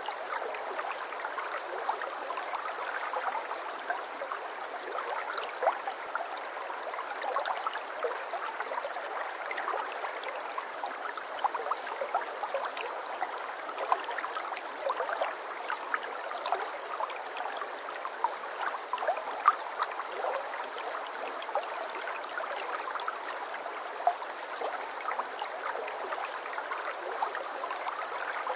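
Shallow brook babbling steadily over stones, a constant rush of water with many small splashes and gurgles throughout.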